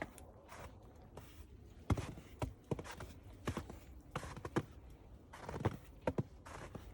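Footsteps in fresh snow: a series of irregular steps, some close together, each a short crunch.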